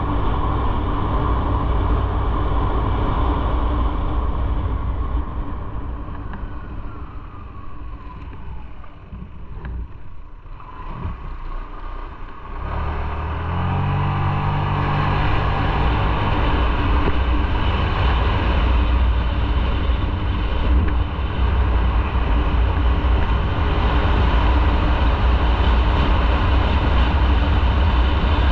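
Motorcycle on the move with heavy wind rumble on the microphone. Partway through the sound eases off and drops, then the engine note rises again as the bike accelerates and the wind noise builds back up.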